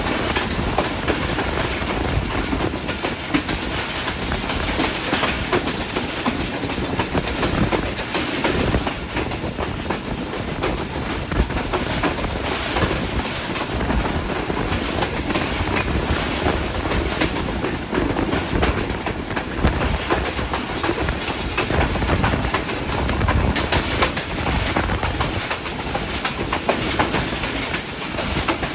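Passenger train running along the track: a steady rumble of the carriages with the wheels clicking over the rails throughout.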